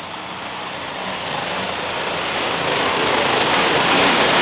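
John Deere super stock pulling tractor's engine running hard under load, growing steadily louder, with a thin, steady high whistle over it.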